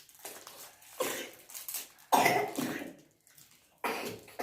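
A child coughing a few times in short, sudden bursts.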